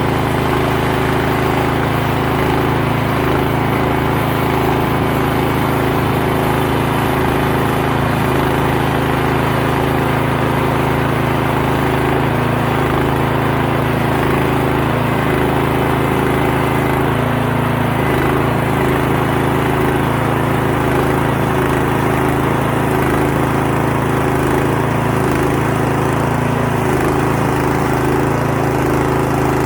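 Small gasoline engine of a Timbery M100 band sawmill running steadily at constant speed.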